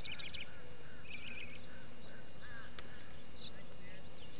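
Birds chirping in several short runs of quick high notes, over a steady low rumble.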